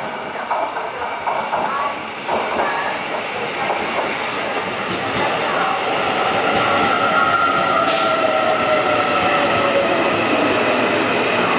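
Taiwan Railway train running through a station with its wheels squealing against the rails. A high squeal fades out about six seconds in and lower squealing tones take over, with a single sharp click near eight seconds.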